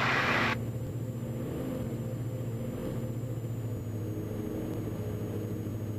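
Steady drone of the Diamond DA42 NG's twin Austro diesel engines and propellers, heard in the cockpit. A hiss over it cuts off about half a second in.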